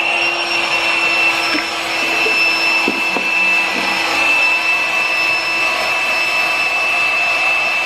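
An electric motor appliance running steadily: a rush of air with a high whine. Right at the end the whine falls in pitch as the motor spins down.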